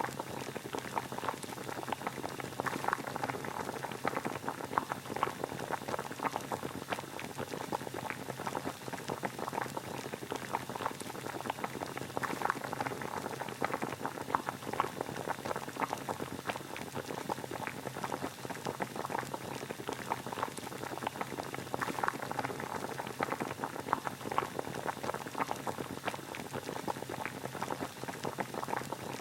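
Water boiling: a steady, dense bubbling made of many small pops, with no pause.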